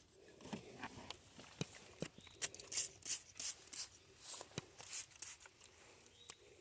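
Scattered clicks and short rustling scrapes of things being handled and moved, coming thickest through the middle.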